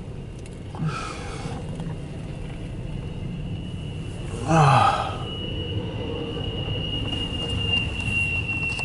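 CSX intermodal freight train rolling past, a steady low rumble heard from inside a vehicle cab. About halfway through, a short loud sound falls in pitch, and a thin steady high whine sets in after it.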